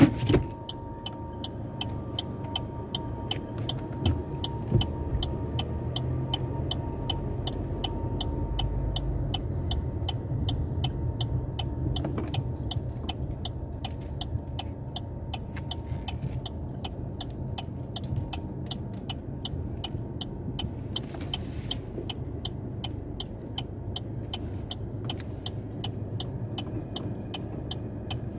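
Car engine idling with a steady low rumble, with an even clicking about two to three times a second throughout.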